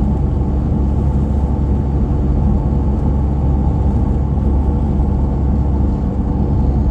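Steady low engine and road rumble heard from inside a moving vehicle's cabin, driving up a mountain highway.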